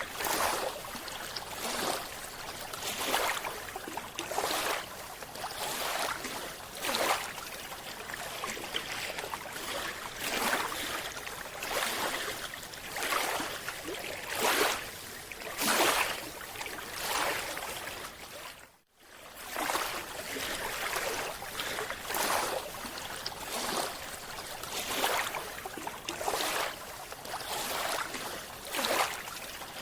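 Rushing water noise swelling in repeated surges about every one and a half seconds, with a sudden brief drop-out a little after the middle.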